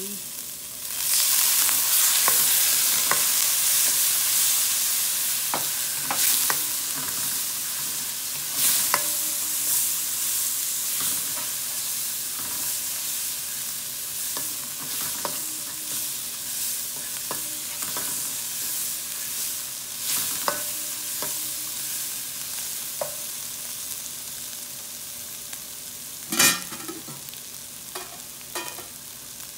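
Chopped onion, garlic and dried red chillies sizzling in hot oil in a pan while a spatula stirs and scrapes through them, with frequent small clicks. The sizzle surges about a second in and slowly dies down; near the end there is one sharp knock of the spatula against the pan.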